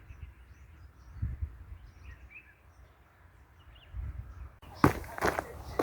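Wind buffeting the microphone in gusts, with faint short bird chirps in the background. Near the end a run of sharp clicks and scuffs starts abruptly, like footsteps on rock.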